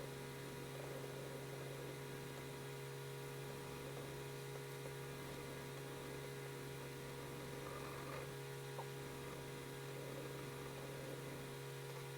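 Steady electrical hum, with a single faint click about nine seconds in.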